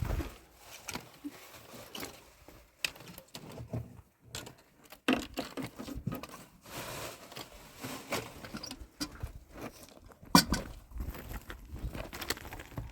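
Irregular light taps, knocks and rustling, with a sharper knock about ten seconds in.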